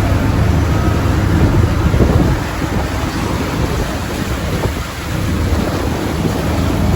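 Strong wind buffeting the microphone: a loud, low, rumbling roar with hiss above it, easing somewhat about two seconds in.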